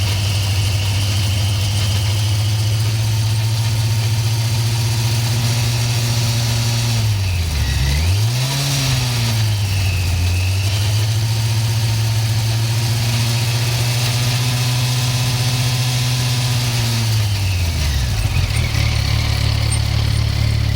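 Yamaha FZ1's inline-four engine running steadily; about seven seconds in, the revs dip and climb back and a raspy, chainsaw-like rattle comes from the gearbox. The revs drop again near the end.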